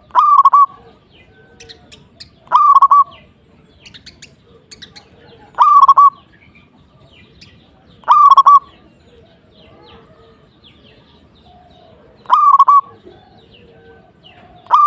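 Zebra dove (perkutut) cooing: a short, rapid, stuttering coo of a few quick notes, repeated about every two to four seconds. Faint high chirps of small birds sound in between.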